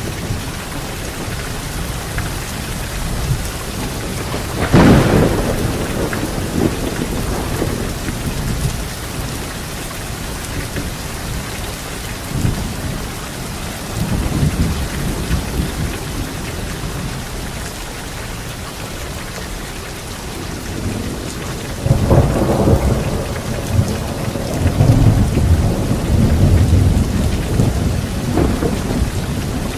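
Thunderstorm: steady rain falling, with a sharp thunderclap about five seconds in that rumbles away, then a long low rumble of thunder from about two-thirds of the way through that swells several times.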